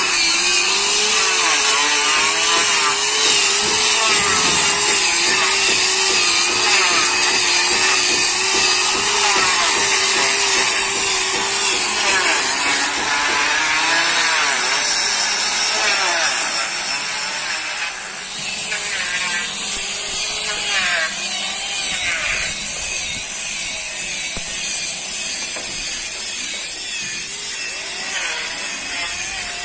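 An electric power tool cutting wood, running continuously with its motor pitch wavering under load; the sound changes and dips briefly about halfway through.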